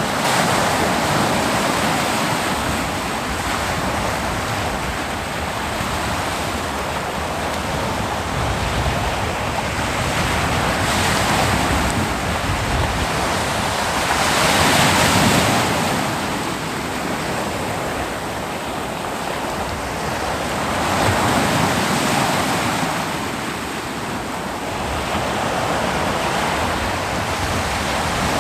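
Ocean waves breaking on a beach: a steady roar of surf that swells and ebbs as each wave comes in, loudest about halfway through, with a little wind on the microphone.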